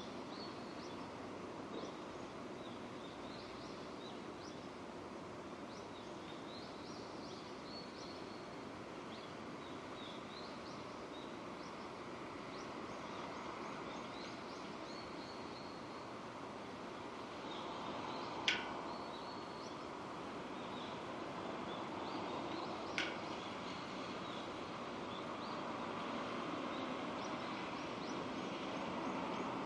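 Steady rain falling, heard as an even hiss, with small birds chirping throughout. Two sharp, brief sounds stand out, about 18 and 23 seconds in.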